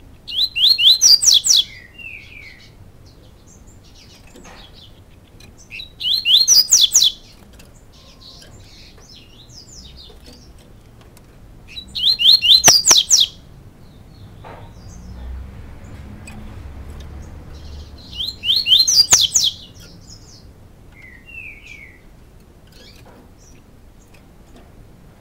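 Pet songbird singing short phrases of quick, high, rising notes, four bursts about six seconds apart, with a couple of softer single call notes in between.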